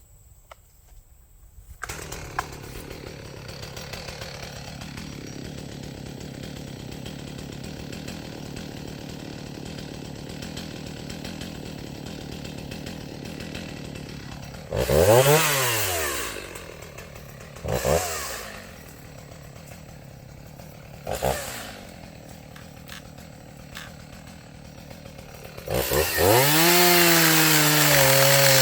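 Stihl MS290 Farm Boss two-stroke chainsaw starting about two seconds in and idling steadily. Around halfway it is revved up and back down, blipped briefly twice, then held at high revs near the end with its pitch sagging slightly as it cuts into the trunk.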